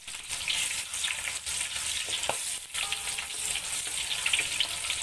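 Sliced red chillies deep-frying in hot oil in a wok: a steady sizzle full of crackles and pops. A wooden spatula stirs them through the oil.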